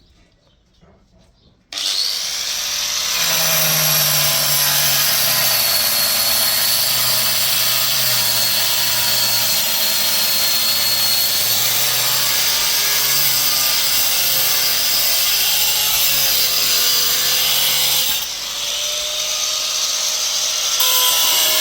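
Electric power tool running under load, its motor pitch wavering as it cuts. It starts abruptly just under two seconds in, eases off a few seconds before the end, then surges again briefly.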